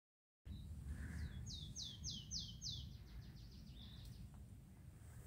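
A small bird calling a quick run of high, down-slurred notes, about five clear ones followed by fainter repeats, over a low steady rumble. The sound cuts in about half a second in, after dead silence.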